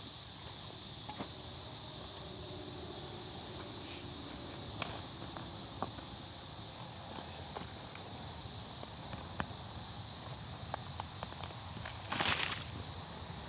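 Campfire giving off scattered small cracks and pops over a steady high insect chorus. Near the end comes a short scraping crunch of a shovel digging into soil.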